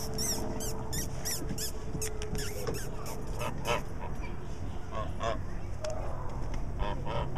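Geese honking: a quick run of short honks in the first two seconds, then scattered honks through the rest, over a steady low hum.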